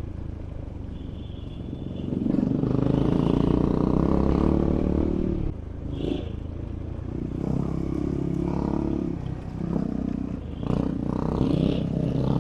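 Adventure motorcycle engine running on a rough dirt track, opening up in three louder throttle surges, with clatter from the bike over the ground.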